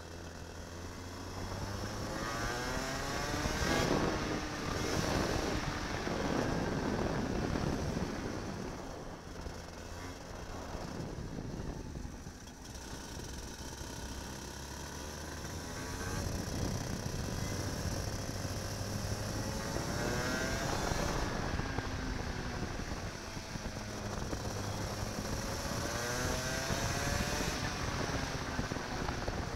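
Racing kart engine heard from onboard, revving up and falling back again and again as the kart accelerates and slows through the lap. Rising sweeps in pitch come a few seconds in, again about two-thirds of the way through, and near the end.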